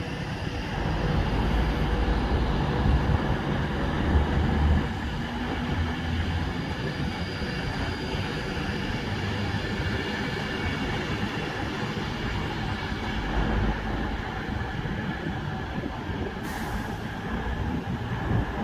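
Passenger train running at the platform: a steady rumble with faint high-pitched whining tones, and a short hiss near the end.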